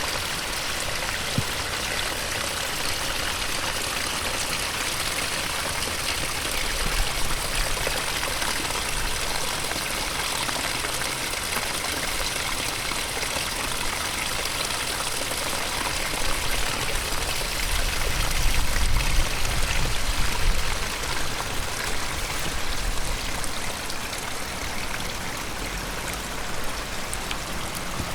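Rain-swollen stream rushing steadily, with rain falling. A low rumble swells about two-thirds of the way in.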